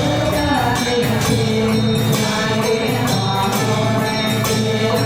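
Ritual music: a chanting voice over jingling percussion.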